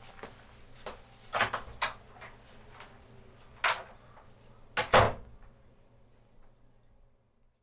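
A door being handled and shut: a run of sharp clicks and knocks, a cluster about a second and a half in, another knock a couple of seconds later, and the loudest pair of clunks about five seconds in.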